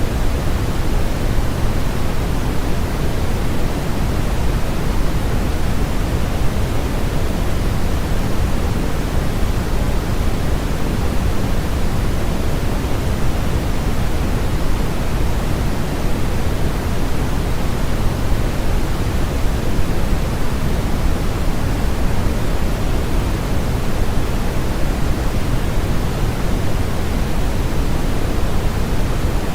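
Steady, unchanging synthetic noise of the white-noise sleep-aid kind, heavier in the low end than the highs, like a soft even rush.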